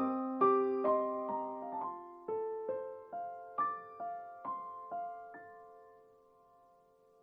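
Background music: a solo piano playing a slow melody of single struck notes, each dying away. The phrase ends on a held note that fades almost to silence for the last second or so.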